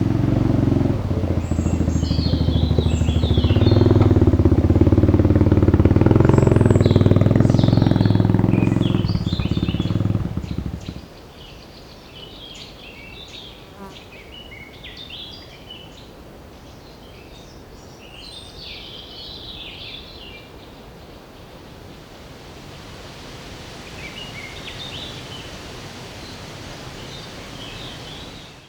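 Quad bike (ATV) engine running close by, steady and a little louder midway, then shut off about eleven seconds in. Birds chirp on and off throughout.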